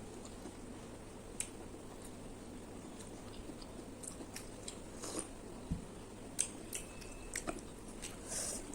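A person eating: chewing, with scattered short wet mouth clicks and smacks.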